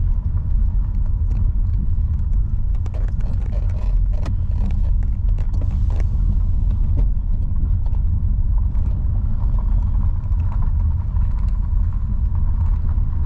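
Steady low road rumble of a car heard from inside the cabin while driving, with a few faint knocks and rattles.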